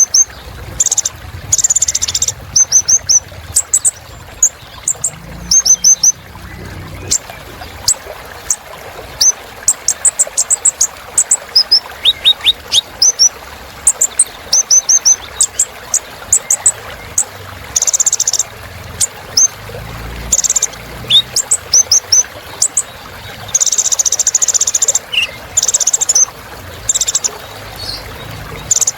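A kolibri ninja sunbird singing: a fast, varied song of very high, thin chirps and quick runs of notes in repeated bursts, its song filled with phrases copied from other birds.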